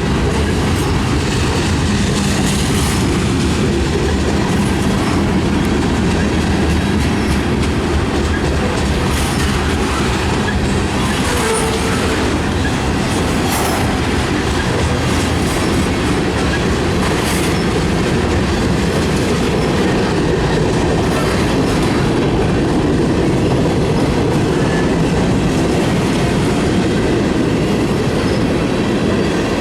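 Freight cars of a mixed freight train rolling past, steel wheels clattering over the rail joints in a steady, loud run, with a few brief high squeals from the wheels.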